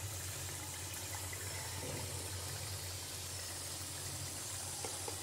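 Masala paste and oil frying in a kadhai with a steady sizzle, over a steady low hum.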